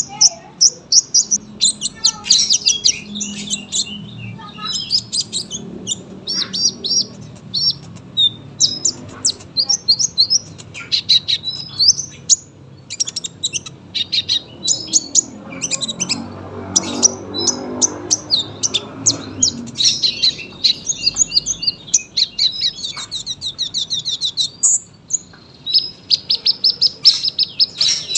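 Sunbird singing a long, continuous song of rapid, high-pitched trills and chattering phrases with barely a pause.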